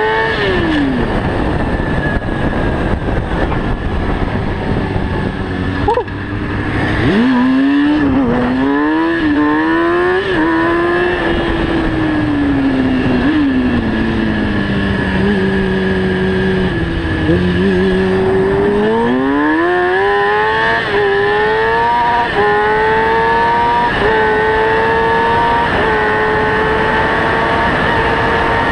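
Motorcycle engine revving and accelerating, its pitch falling and rising through the first half, then climbing in a series of quick upshifts in the second half.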